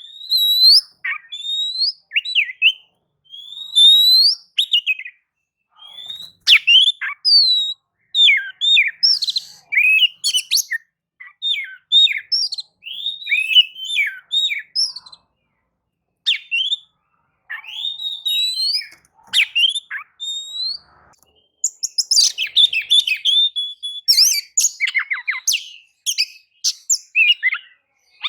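Oriental magpie-robin in full song: a loud, varied run of clear whistles, slurred notes and chattering phrases, broken by short pauses. Near the end the phrases come faster and busier.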